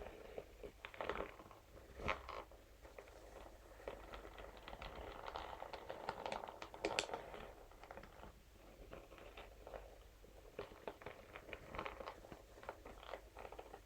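Scalp massage brush bristles scratching and tapping against a material: an uneven run of light scratches and small clicks, with sharper clicks about two and seven seconds in.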